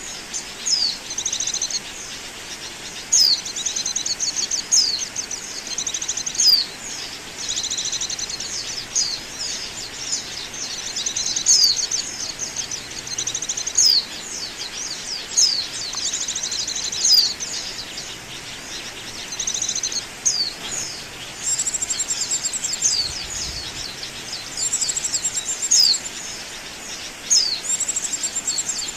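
Pleci (white-eye) song used as a lure call: rapid, high-pitched twittering chirps and trills in run-on phrases with short gaps, with higher, thinner notes joining in the second half over a faint hiss.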